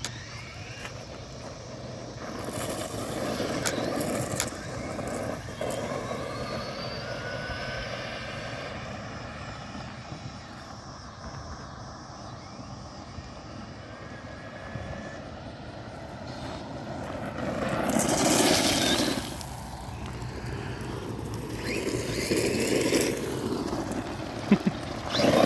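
RC monster truck's electric motor whining, rising in pitch several times as it speeds up, with two louder bursts of tyre and ground noise in the second half.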